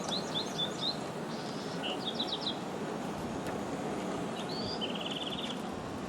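A small songbird chirping in three short bursts of quick high notes, the last ending in a fast even trill, over a steady low background rumble.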